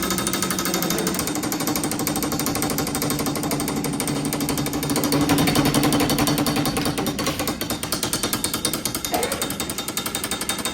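A workshop machine running with a loud, fast, steady rattle over a low hum, cutting off near the end.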